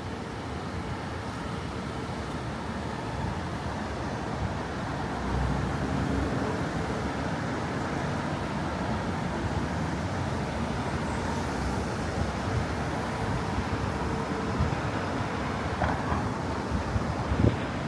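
City street traffic: a steady hum of passing vehicles with a low engine rumble, growing louder about five seconds in, and a short sharp knock near the end.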